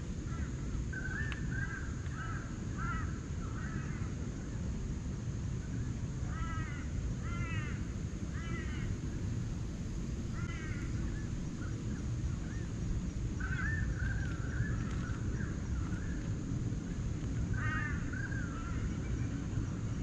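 Forest birds calling: harsh, arched calls in short runs about six to nine seconds in and again near the end, with warbling phrases in between, over a steady low rumble.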